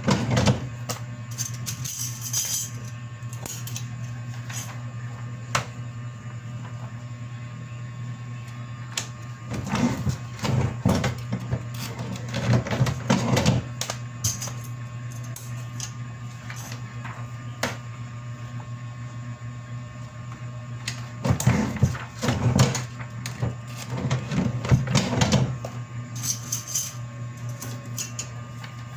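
Steady low machine hum with irregular clicking and rustling, busiest in two stretches, one near the middle and one in the last third.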